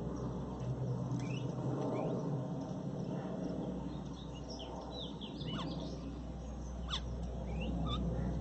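Garden birds calling: scattered short chirps and quick sliding notes, busier in the second half, over a steady low background rumble.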